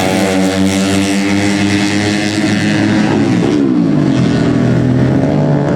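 Tuned 130 cc four-stroke underbone race motorcycles running at high revs. The engine pitch holds high, then falls about three seconds in and settles lower as the riders back off.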